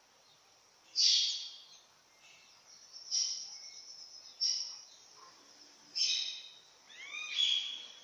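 A bird calling repeatedly: about five short, scratchy calls, one every second or so, beginning about a second in.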